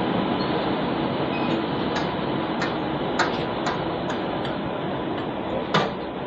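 Passenger train running with a steady rumble, with a series of irregular sharp clicks from about two seconds in, the loudest near the end.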